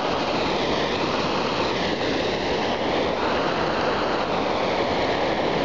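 Steady rush of a fast-flowing mountain stream, loud and unbroken.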